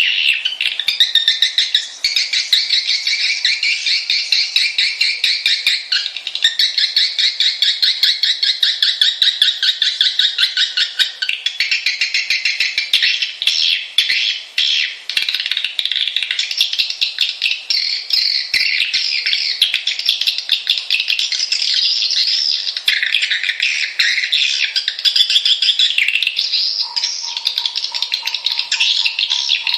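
Swiftlets twittering in a loud, dense chorus, a rapid stream of high chirps with no pause: a swiftlet lure and roosting call, played to draw swiftlets into a nesting house. A steady tone joins in near the end.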